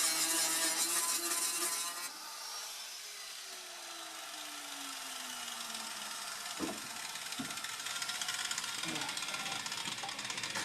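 Lifting gear working in a shop: a loud hiss for about two seconds, then quieter mechanical clicking with a slow creak that falls in pitch, and a few sharp clicks near the middle.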